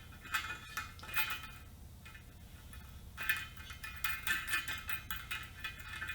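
Light metallic clinks and ticks of a nut being fitted onto a heavy-duty steel clamp-in valve stem through a wheel rim, coming in scattered small bursts.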